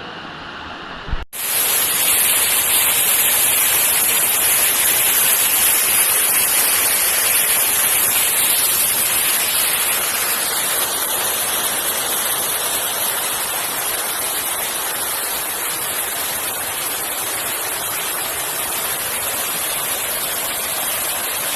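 Steady rushing water noise, brightest in the highs, starting abruptly just over a second in.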